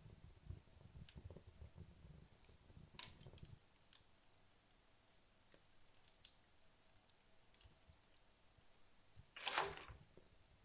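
Wood logs burning in a fireplace, giving faint crackles and scattered small ticks. A low flutter from the flames runs for the first few seconds, and one louder crackle comes near the end.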